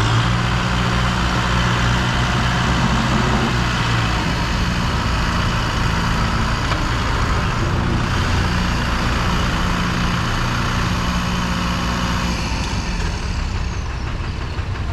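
Kubota M6040 tractor's diesel engine working steadily under load, its pitch shifting as the load changes. Near the end a high whine falls away and the engine eases off.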